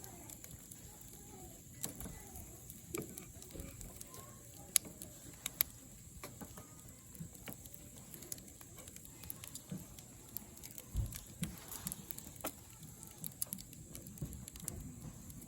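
Wood campfire crackling, with irregular sharp snaps and pops of burning wood.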